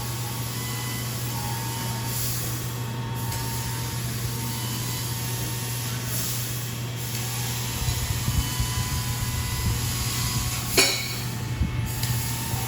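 Emerson Stratojet ceiling fans running, a steady low motor hum under an even rush of air that swells every few seconds. About eleven seconds in comes one short, sharp sound with a falling sweep.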